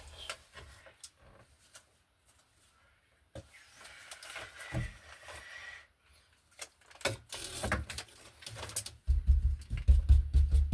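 Handling noise from hands-on electrical work: scattered clicks and knocks of small parts, a brief scraping about halfway through, and a run of heavy thuds near the end.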